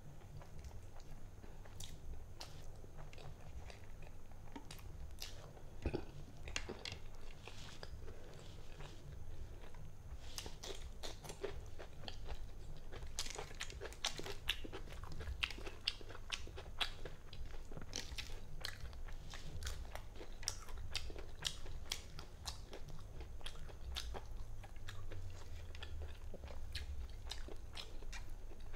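Close-up chewing and mouth sounds of someone eating turmeric rice and chicken bhuna by hand: irregular wet clicks and smacks throughout.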